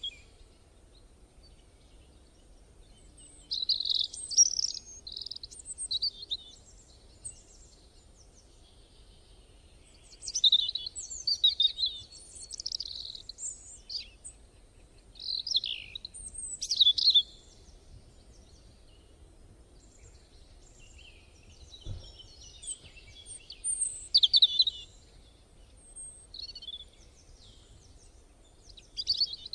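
Birds chirping and calling in short bouts of a few seconds, with quieter gaps between them.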